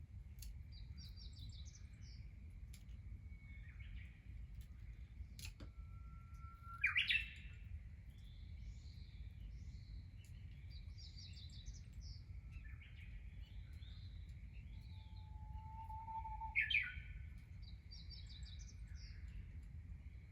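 Birds singing: two loud songs, each a long held whistle that breaks into a quick loud flourish, about seven seconds in and again ten seconds later, over softer high twittering from other birds and a steady high hum.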